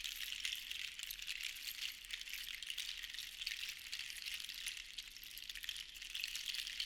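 Seashells rattling against one another in a dense, continuous clatter of tiny clicks that swells and eases in slow waves.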